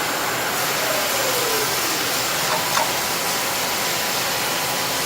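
Shizuoka AN-S vertical machining center running through its cycle with a steady hissing noise. A faint falling tone comes about a second in, and a short click comes near the three-second mark.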